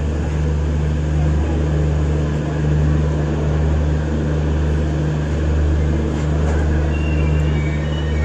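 Steady low drone and hum of a passenger train, heard from on board, rising and falling slightly in level.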